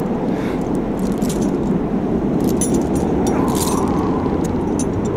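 Steady blizzard wind blowing, with scattered light metallic clinks and jingles through it.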